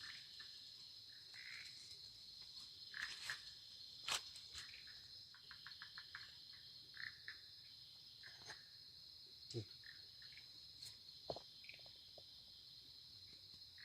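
Faint, steady high-pitched chorus of forest crickets and other insects, with scattered short chirps and a few light clicks, the sharpest about four seconds in.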